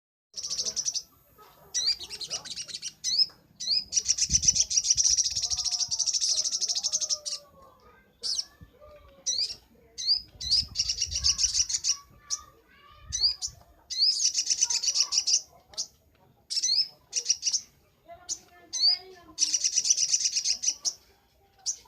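Little spiderhunter (sogon) singing. It gives long, fast, high chattering runs of a few seconds each, broken by short sharp rising notes, with softer lower calls in the background.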